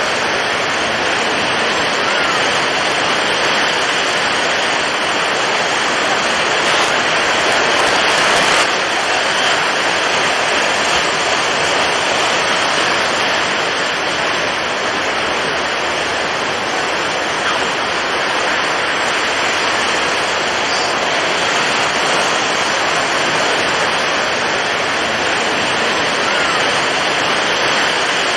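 Storm at sea: strong wind and heavy waves making a steady, dense rushing noise, swelling to a peak about eight seconds in and then easing.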